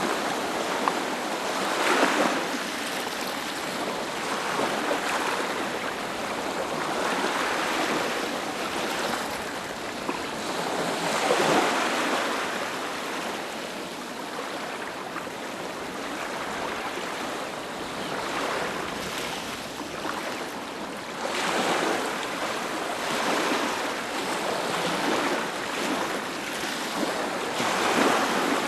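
Ocean waves breaking on a beach: a continuous surf wash that swells as each wave breaks, with stronger breaks about 2 s, 11 s, 21 s and 28 s in.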